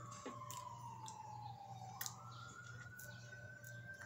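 Faint siren wailing slowly, its pitch sliding down over about two seconds and then rising again, with a few soft clicks.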